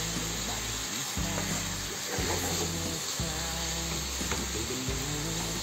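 Chicken pieces sizzling and frying in a frying pan as they are stirred with a wooden spatula, with a steady hiss. Background music with low held notes that change about once a second plays throughout.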